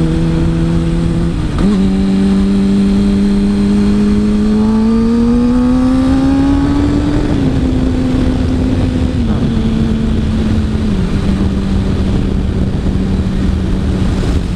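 Kawasaki ZX-6R sport bike's inline-four engine under way, heard from the rider's seat with wind noise. Its note climbs steadily for several seconds as the bike accelerates, then drops in three steps and settles to an even cruise.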